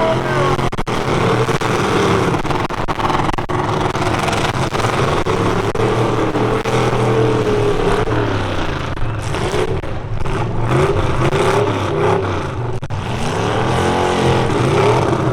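Several full-size pickup truck engines racing on the track, revving up and down as they accelerate and lift, with several rising and falling engine pitches overlapping.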